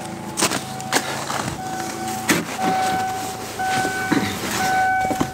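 Knocks and clicks around a vehicle as it is readied to drive, with a steady electronic tone sounding on and off, like a vehicle's warning chime.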